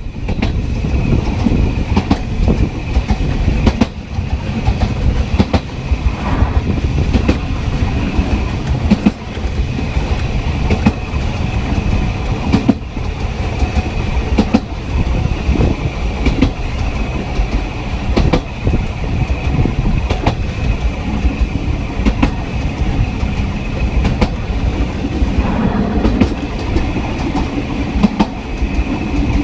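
Sóller railway's narrow-gauge train running along the track, heard from the last carriage: a continuous low rumble with the clickety-clack and rattling clicks of wheels over rail joints, and a faint steady high whine.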